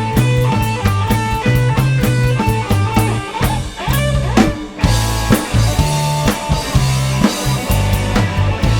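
Instrumental rock music: electric guitar over bass and a steady drum-kit beat, with a short break about four and a half seconds in before the band comes back in.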